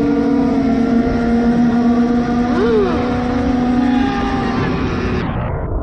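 Motorcycle engine running steadily at road speed, with one quick rev up and back down about two and a half seconds in. The sound turns dull near the end.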